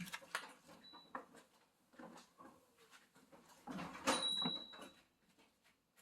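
Scattered wooden knocks and clatter of split firewood being handled and stacked, with a denser burst of knocks about four seconds in.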